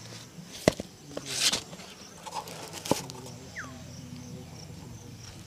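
Shoe-shine work: a sharp tap, a short brushing swish, then another sharp tap, over a steady low background hum, with a brief falling chirp in the middle.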